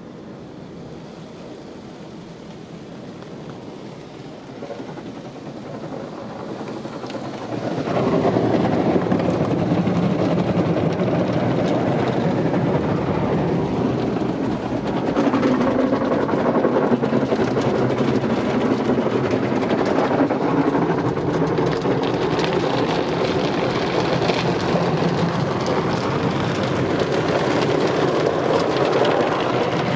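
Automatic car wash spraying water onto the car: a quieter run-up over the first few seconds, then a loud, steady rush of spray from about eight seconds in.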